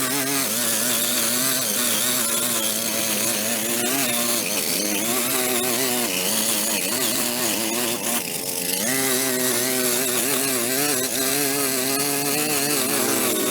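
Small gas-engine power tool running at high revs, its pitch wavering up and down as it works under load, with a brief dip about eight seconds in.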